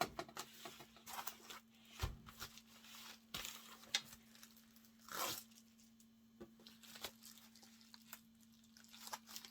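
Faint, scattered crinkling, rustling and light knocks from a plastic bubble mailer being handled and closed, with a low thump about two seconds in and a longer rustle about five seconds in.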